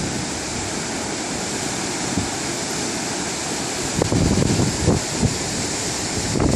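Ocean surf washing steadily, heard from above the shore, with wind buffeting the microphone in low gusts about four to five seconds in.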